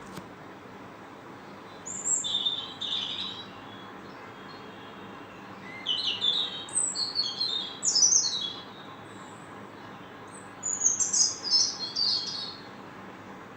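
Songbird chirping in three bursts of quick, high twittering phrases: one about two seconds in, a longer one from about six to nine seconds, and another around eleven to twelve seconds.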